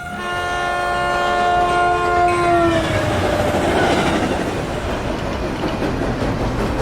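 A train horn sounds a steady chord for nearly three seconds, and all its notes drop in pitch together as the train passes. The rumble and clatter of the train going by follow.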